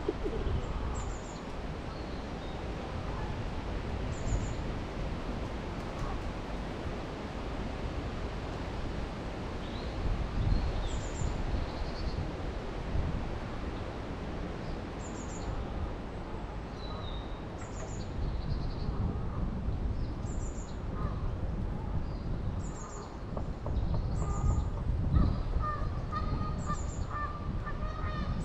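Outdoor birdsong: short high chirps from a small bird every second or two, and in the last few seconds a run of waterfowl calls, over a steady low rumble of wind.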